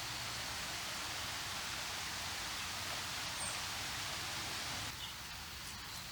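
Steady outdoor hiss with one brief, faint high bird chirp about three and a half seconds in. The hiss drops a little about five seconds in.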